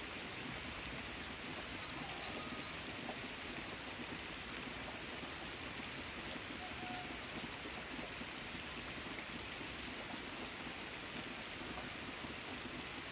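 Steady rain falling on the leaves of persimmon trees: an even, unbroken hiss.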